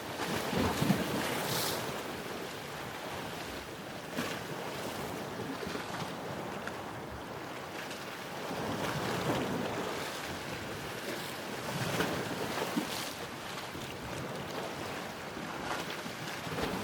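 Ocean surf: a steady rush of waves breaking and washing in, swelling louder several times as individual waves come in.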